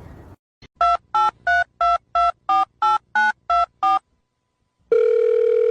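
Touch-tone telephone dialing: ten short two-tone keypad beeps about three a second, a phone number being keyed in. About a second after the last beep a steady ringing tone starts, the line ringing at the other end.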